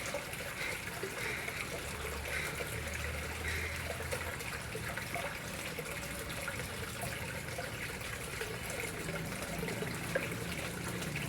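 Water flowing and trickling steadily into a koi pond, a continuous even splashing.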